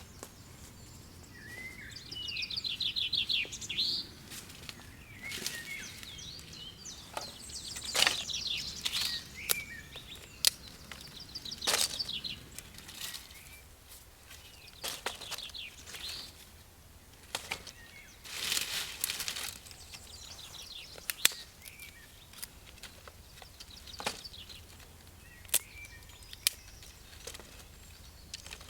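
Small birds chirping and singing in quick trills, with scattered sharp snaps and knocks now and then.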